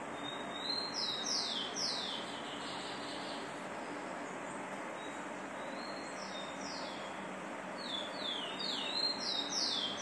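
A songbird singing two phrases, each a brief thin note followed by a run of falling whistled notes. The second phrase is longer and runs on near the end.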